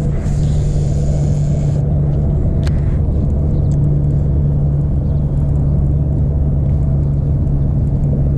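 Boat motor running steadily, a low hum over a rumble, with a brief hiss in the first two seconds.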